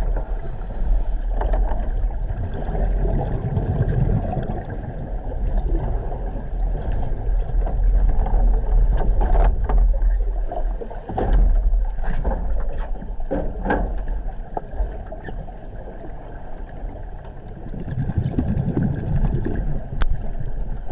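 Water churning and sloshing over a steady low rumble, with scattered knocks.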